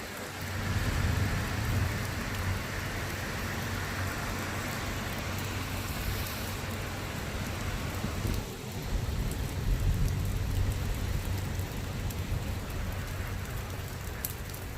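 Steady rain falling during a thunderstorm, with low rumbles of thunder swelling about a second in and again around nine seconds.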